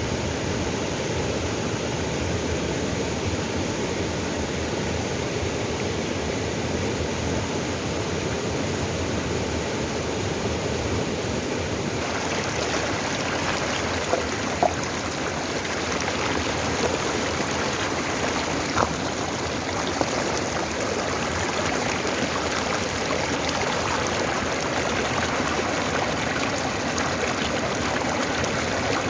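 Mountain stream rushing and splashing over rocks, a steady wash of water that turns brighter and more splashy about twelve seconds in.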